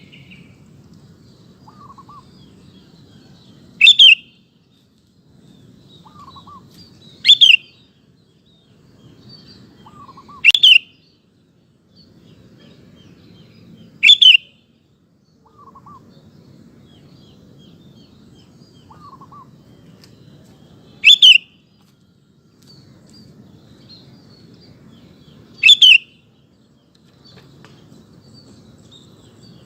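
Sooty-headed bulbul (kutilang) calling: a loud, short call repeated seven times, about every three to four seconds, with faint soft chirps between the calls.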